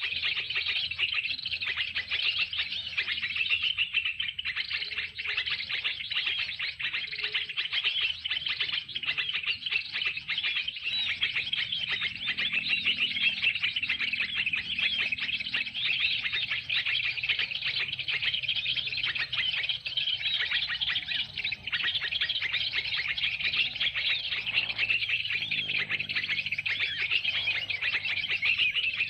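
A lure recording of small songbirds played through a small speaker to draw birds to a trap. It gives a dense, unbroken stream of rapid high chirps, switched on abruptly just before.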